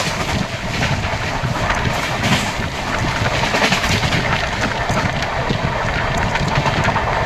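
Amrit Bharat Express train running: a steady rumble with constant rattling and clicking from the coach and wheels, and wind rushing over the microphone.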